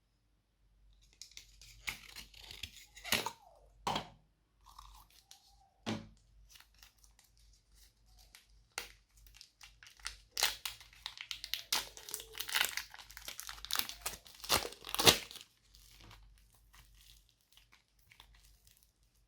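Slime being mixed and squeezed by hand, making sticky clicks and pops. They come scattered in the first few seconds, then in a dense run in the middle, the loudest just after the midpoint, before it goes quiet near the end.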